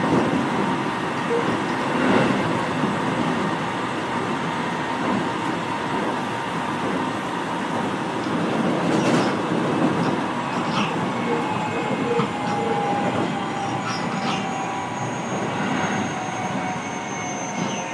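Keio 7000-series electric train running, heard from inside the car: a steady rumble of wheels on rail with a few sharp clacks from rail joints. Thin motor tones hang over it and slowly fall in pitch through the second half.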